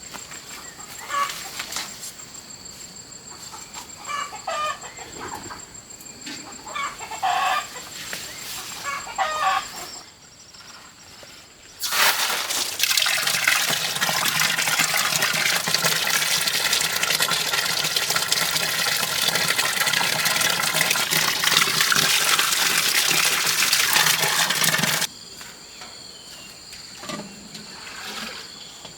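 Chickens clucking in short, scattered calls. Then, after a brief lull, a much louder, dense, steady noise sets in for about thirteen seconds and cuts off suddenly, followed by a few more calls.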